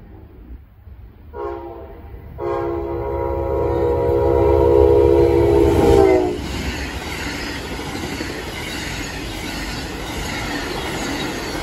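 Horn of an Amtrak GE P42DC locomotive sounding for a grade crossing: a short blast, then a long one that drops in pitch as the locomotive passes at speed. The passenger cars then rush by with a steady roar of wheels on rail.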